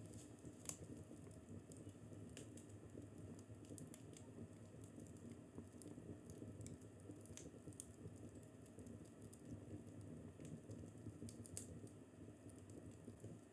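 Fireplace fire crackling faintly: irregular sharp pops and snaps over a soft low rumble, with a louder pop shortly after the start and another near the end.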